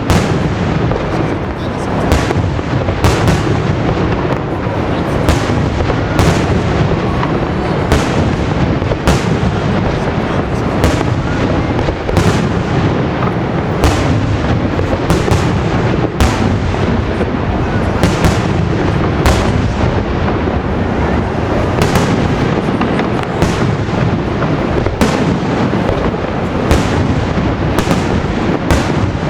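Fireworks display: a dense, continuous rumble of bursting aerial shells, with sharp reports about once a second.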